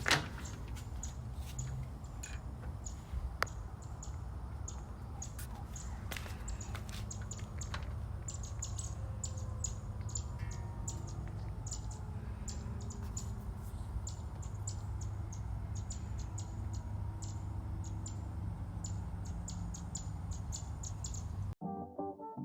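Small birds chirping over and over in short, high calls, with a steady low rumble underneath. Near the end this cuts off abruptly and brass music begins.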